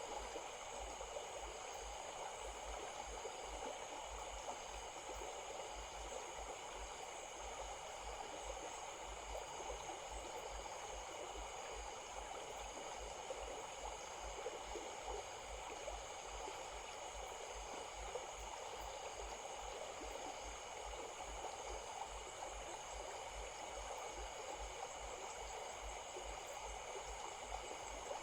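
Stream flowing: a steady, even rush of running water, with steady high-pitched tones and a faint pulsing whine above it.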